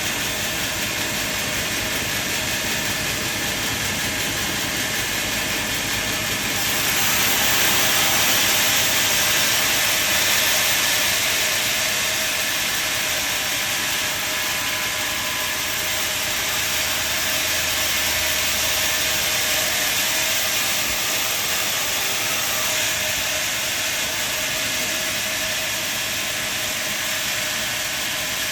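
Industrial sawmill machinery running, the saw making a steady rushing noise as it works through wood. The noise swells about six or seven seconds in, stays louder for a few seconds, then eases back to a steady level.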